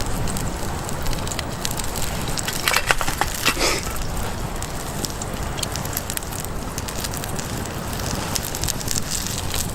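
Small wood campfire crackling, with scattered pops and a louder cluster of sharp snaps about three seconds in.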